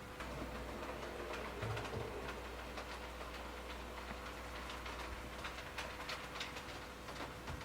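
A train running on the rails, with faint irregular clicking and ticking over a steady low hum.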